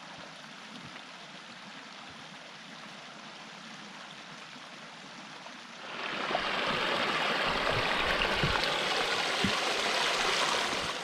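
Small stream running, a steady rushing of water that becomes much louder and fuller about six seconds in.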